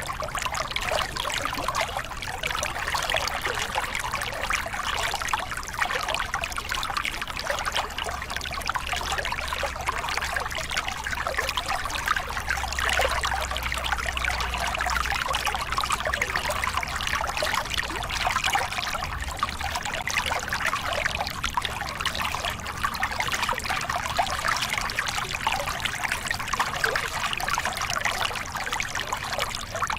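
Small river cascade: water spilling and splashing over rocks in a steady, unbroken rush.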